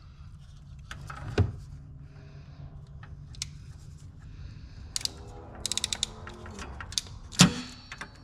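Hand-tool work: sharp knocks about a second and a half in and again near the end, and a quick run of about six ratchet-like clicks a little past halfway, over a low steady hum.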